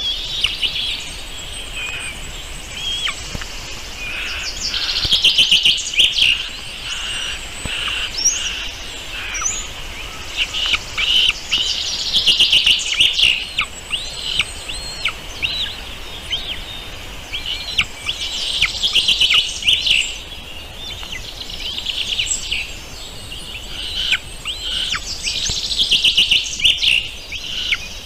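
Many small birds chirping and calling together in a dense, continuous chorus of short, quick notes, swelling into louder bursts of rapid notes every several seconds.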